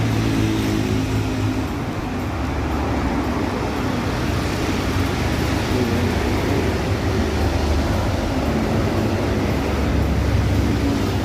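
A car engine running steadily, a low hum with a slight waver in its pitch.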